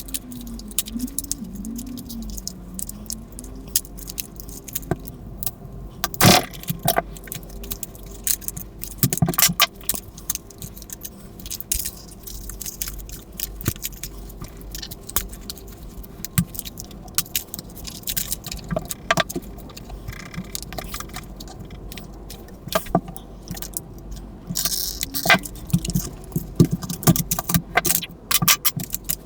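Close-up clicks, taps and light metallic clinks of tools and small parts while a battery-powered toy poodle is taken apart, the sharpest click about six seconds in. A faint wavering tone sounds in the first few seconds and a short rising one near the end.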